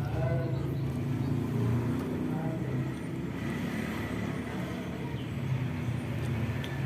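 Steady low rumble of road traffic, with a few faint, short higher tones about half a second in.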